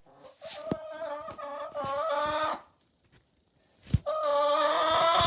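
Chicken calling: two long, drawn-out calls of about two seconds each, with a pause and a single click between them.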